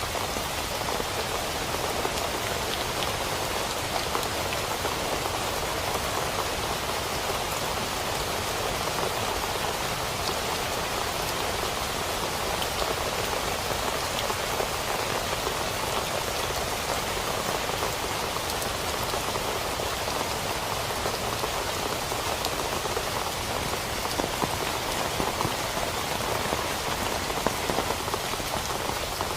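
Steady rain falling, with a dense, even hiss of many small drop impacts.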